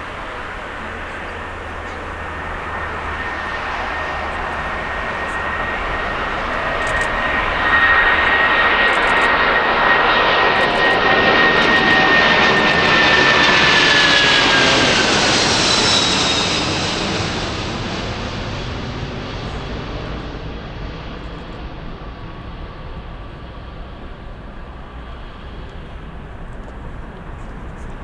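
Airplane passing close by under engine power, its noise building to a peak midway and then fading away. A high engine whine drops in pitch as the aircraft goes past.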